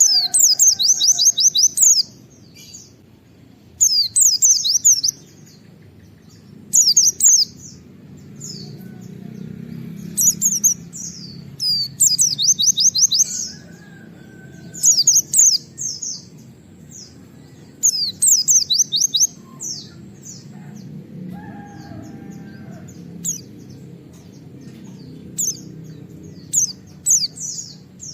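White-eye (pleci) singing in bursts of rapid, repeated high 'wit-wit' notes, each burst a second or two long, recurring every few seconds. A steady low background rumble runs under the song.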